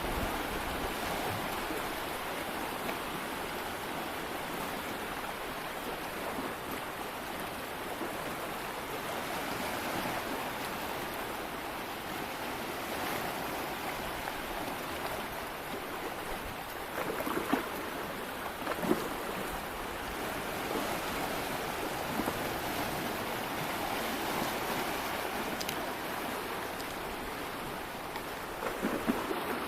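Steady rushing water noise, like surf or a running stream, with a few short knocks about two-thirds of the way through and again near the end.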